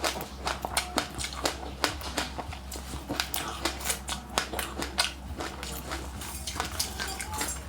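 Chewing of crunchy passionfruit with sesame seeds: a run of sharp, irregular crunches, several a second, over a faint steady low hum.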